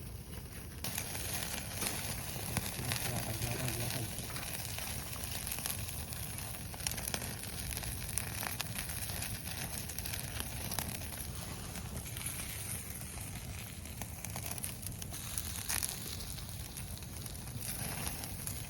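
Wood fire in a fire stand crackling, with many sharp pops over a steady hiss that comes in louder about a second in.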